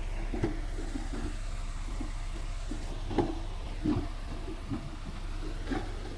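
Bulldozer's diesel engine running with a steady low drone, with irregular metallic clanks and knocks over it, the loudest a little past three seconds and near four seconds in.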